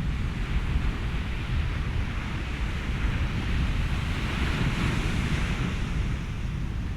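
Ocean surf and wind: a steady low rumble under a hiss of washing water, with a wave swelling up and washing through about halfway in.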